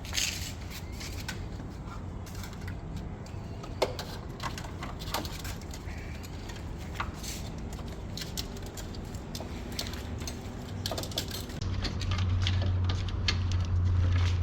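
Scattered light clicks and knocks of hand tools and parts being handled, with one sharper knock about four seconds in, over a steady low hum that gets louder near the end.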